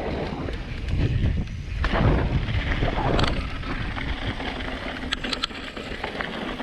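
Mountain bike rolling down a bumpy dirt jump trail: wind buffeting the microphone and tyres rumbling over the dirt, with a few sharp clicks of rattling bike parts about five seconds in.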